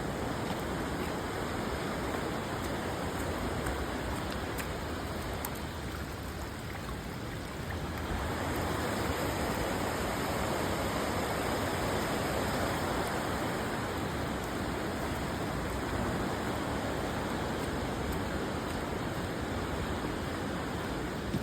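River water rushing steadily, dipping slightly a few seconds in and then a little louder from about eight seconds on.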